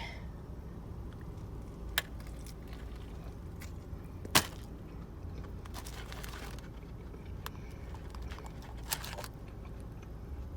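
A person eating a large burger with onion rings: a few sharp crunches or clicks and brief rustles of handling, over a steady low hum.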